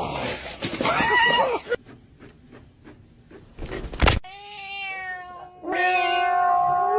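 A cat meowing: a short meow about a second in, then two long, drawn-out yowls in the second half, the second one held steady. A sharp knock comes just before the long yowls.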